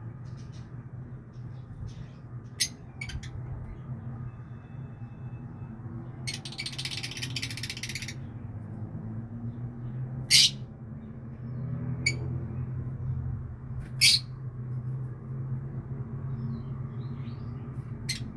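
A bird giving short, sharp chirps a few seconds apart, the loudest about ten and fourteen seconds in, over a low steady hum. About six seconds in there is a rustling noise lasting about two seconds.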